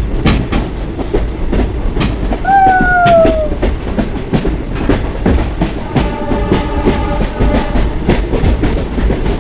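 Passenger train running on the track: a steady rumble with a run of wheel clicks over the rail joints. A short falling tone sounds about two and a half seconds in, and a steady tone of several notes sounds about two-thirds of the way through.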